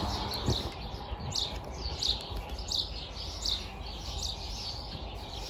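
A small bird chirping outdoors: short, high, falling chirps repeated every second or so, over a low steady background rumble.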